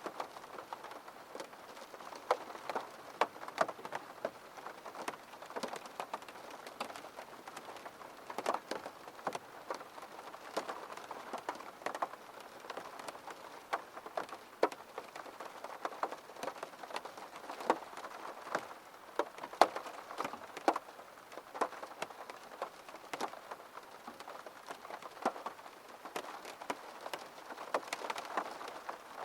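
Rain on a window pane: irregular single drops tapping sharply, several a second, over a faint steady patter.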